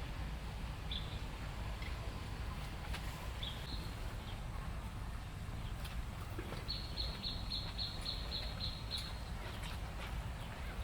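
Small bird chirping: two short high calls, then an even run of about a dozen quick chirps, over a steady low rumble.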